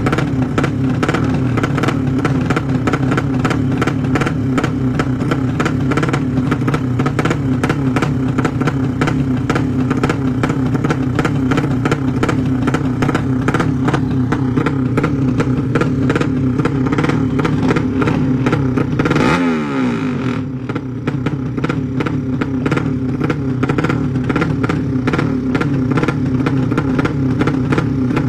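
Racing motorcycle engines running loud and steady at high revs, with a rapid rough pulsing from the exhaust. About 19 seconds in, the sound briefly dips and shifts in pitch, then settles back to steady running.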